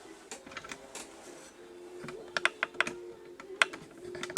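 Irregular small clicks and taps of a pencil and straightedge against the layout table as a straight line is drawn, bunched about halfway through and again near the end, over a faint hum.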